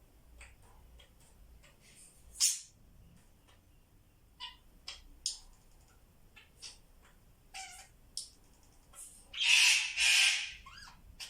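Pet parrots making small high chirps and clicks, with one sharp call about two and a half seconds in, then two loud harsh squawks back to back near the end.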